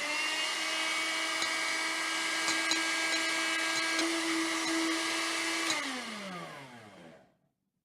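Electric blender running, blending banana slices with milk and sugar into a milkshake. Its motor whines steadily for about six seconds, then is switched off and winds down with a falling pitch before stopping.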